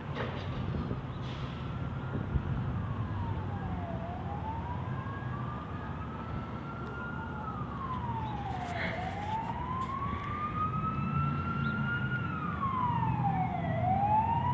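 Emergency vehicle siren in a slow wail, rising and falling about every five seconds, with a second, fainter and higher siren wailing from about nine seconds in, over a steady low engine rumble.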